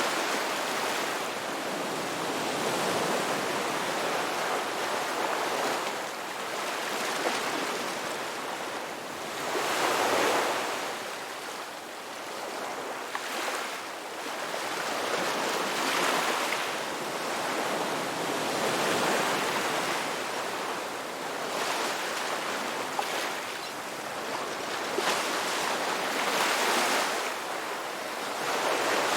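Ocean surf: waves washing in as a rushing hiss that swells and fades every few seconds, loudest about ten seconds in.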